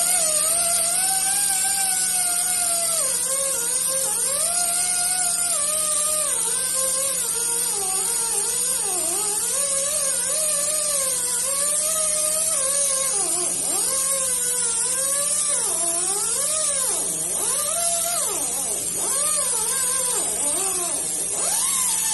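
A handheld power tool running continuously on the flywheel face, scuffing off the glaze. Its motor pitch repeatedly dips and recovers as it is pressed into the work, over a steady hiss.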